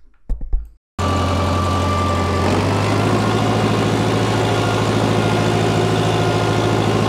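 A brief low thump, then a large engine starting abruptly in the sound and idling steadily, its pitch shifting slightly a couple of seconds in.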